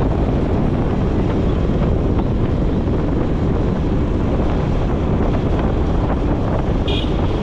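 Wind buffeting the microphone of a moving motorcycle, over steady engine and road noise. A short high tone sounds just before the end.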